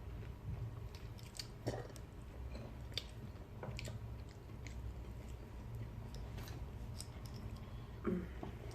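Close-miked chewing with scattered small crunches and clicks of food being bitten and eaten, over a low steady hum.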